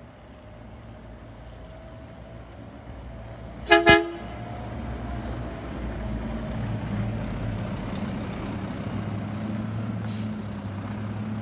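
Garbage truck's engine running, getting louder about halfway through, with two quick horn toots about four seconds in.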